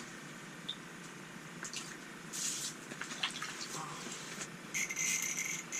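Water splashing and dripping at an ice-fishing hole as a small perch is pulled up through it, with short bursts of splashing about two and a half seconds in and again near the end.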